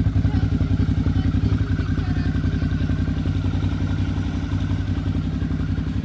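Suzuki DL650 V-Strom XT's V-twin engine idling steadily, the exhaust giving a fast, even pulse.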